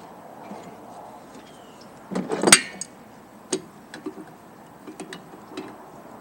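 Metal parts clanking and clicking as a fitting is worked back onto a Bostitch air compressor: a louder clatter about two seconds in, then a few short sharp clicks.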